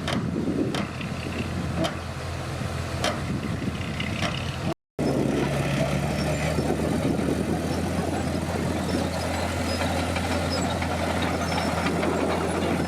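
Komatsu D50PX bulldozer's diesel engine running steadily under work, with sharp knocks in the first few seconds. The sound drops out for a moment about five seconds in, then the engine carries on steady.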